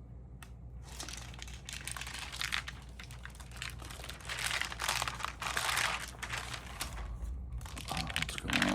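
Crinkling and rustling of stamp album pages and their sleeves being handled and turned, in irregular bursts with brief pauses.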